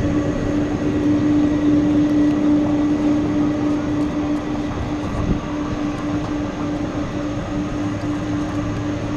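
Boeing KC-46A tanker's twin turbofan engines running at low power as it taxis: a steady jet drone with a constant low hum over a rumble.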